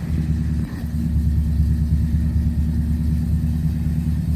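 1979 Chevy C20's 350 V8, bored 30 over and running through dual exhaust, idling steadily on choke just after a cold start: a low, even rumble.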